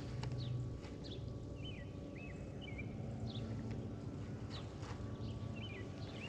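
Small birds chirping again and again in short, sharp, falling and hooked notes over a low steady rumble.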